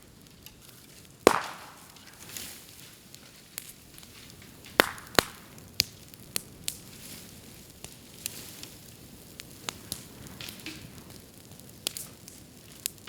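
Burning bamboo crackling in a bonfire, with sharp, loud pops and snaps at irregular intervals, the loudest about a second in and several more spread through.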